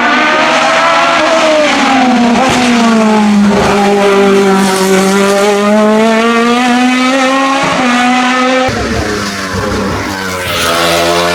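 Hillclimb race car engine running hard under load, its pitch sagging and rising as it drives through bends, with abrupt changes in pitch like gear shifts near the end.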